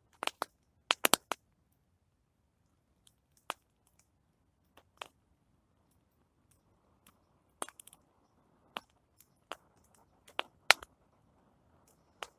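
Plum-wood campfire crackling: sharp, irregular pops and snaps, with a quick cluster about a second in and scattered single cracks after.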